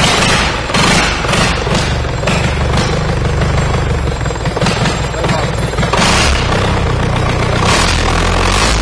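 Rebuilt YTO 854 tractor diesel engine running loudly on a test stand during its first run-in after overhaul, in uneven surges. It settles to a steadier note near the end.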